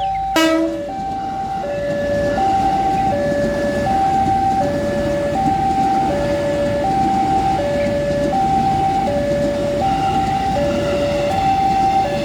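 Emergency vehicle's two-tone hi-lo siren, alternating evenly between two notes about every three-quarters of a second, over steady engine and traffic rumble. A brief sharp sound cuts in about half a second in.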